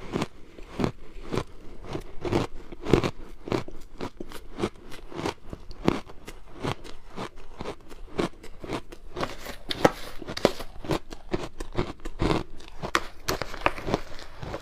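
Someone biting and chewing hard ice close to the microphone: a steady run of sharp crunches, several a second.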